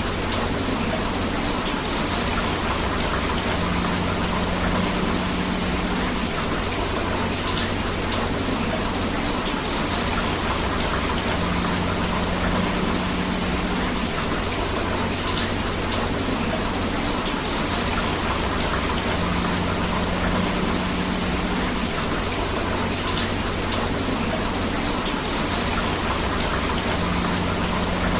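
Steady rush of rain and flowing river water, with no pauses. A faint low hum and small ticks come back about every eight seconds, as the recording repeats on a loop.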